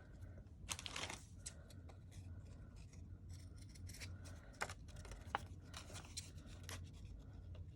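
Faint paper-crafting handling: paper rustling with scattered small clicks and taps, and a longer rustle about a second in.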